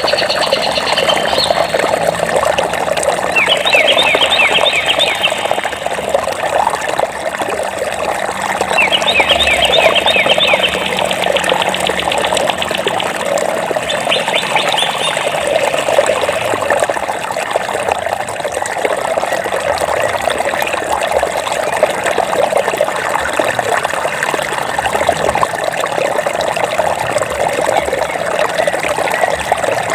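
Water of a stream flowing steadily, with a small bird singing quick high trills a few times in the first half.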